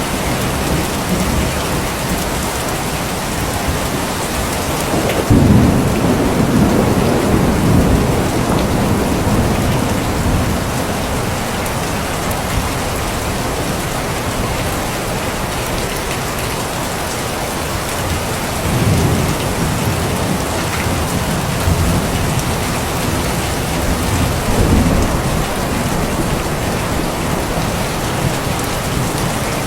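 Steady heavy rain falling, with low rolls of thunder rumbling up about five seconds in, again about two-thirds of the way through and once more near the end.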